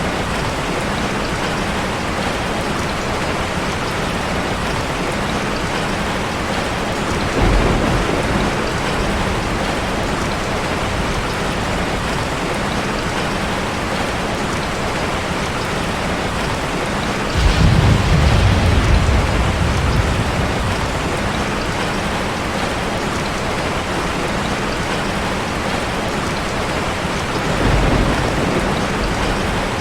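Heavy rain falling steadily on a car, with low rolls of thunder three times: about a quarter of the way in, a louder and longer one just past the middle, and a shorter one near the end.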